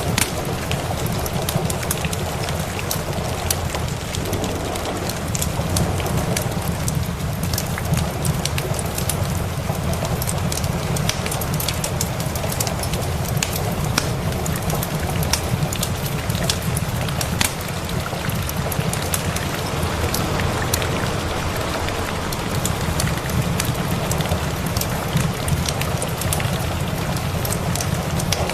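Steady rain mixed with a crackling wood fire: a constant dense hiss, frequent sharp pops and crackles, and a steady low rumble underneath.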